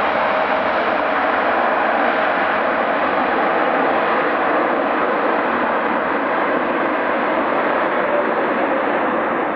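Jet airliner's engines making a loud, steady rushing noise, the high end slowly dulling as the aircraft moves away.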